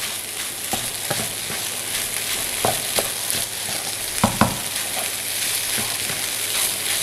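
Green chili fried rice with beef and egg sizzling in coconut oil in a non-stick wok while a wooden spatula stirs and tosses it, with scattered knocks and scrapes of the spatula on the pan. The sharpest are two knocks in quick succession about four seconds in.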